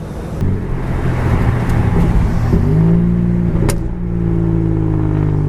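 Car engine running under way, its note rising slightly about two and a half seconds in, then holding steady.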